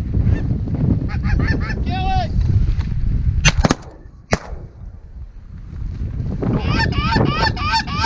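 Geese honking in a run of quick calls, over heavy wind buffeting on the microphone. Two sharp shotgun reports come about a second apart near the middle, then the goose calls start again near the end.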